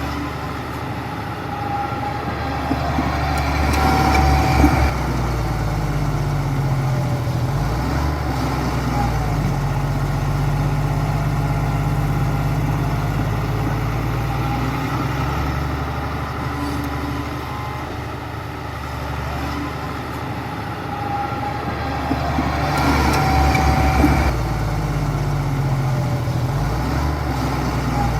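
Heavy diesel engine of a bulldozer running steadily, swelling louder twice, about four seconds in and again near the end, with a rise of clattering noise each time.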